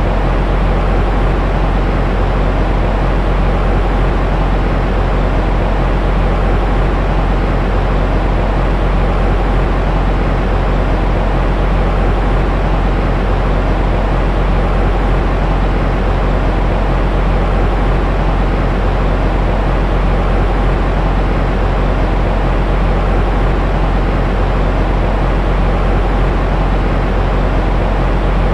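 Steady, unbroken white noise for lulling a baby to sleep: a constant rushing sound with a deep low rumble and little hiss on top.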